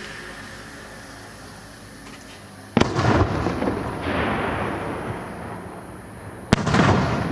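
Two aerial firework shells bursting, one bang about three seconds in and a second near the end, each followed by a long rolling rumble that dies away slowly.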